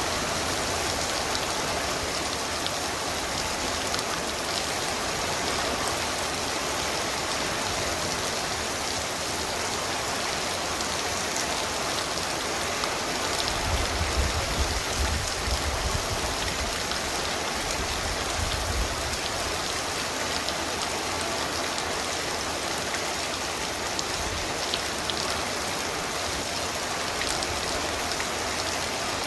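Heavy torrential rain pouring steadily, with a low rumble swelling briefly about halfway through.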